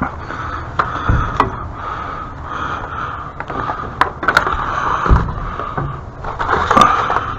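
Scattered sharp knocks and clicks, with some scraping, from things being handled and moved about.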